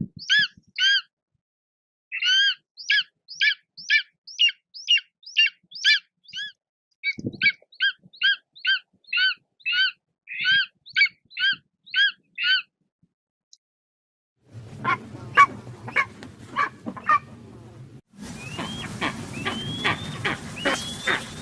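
Bird of prey calling: a long run of sharp, evenly repeated calls, about two a second. After a short pause, two other recordings follow: calls over background noise, then a series of short upslurred calls.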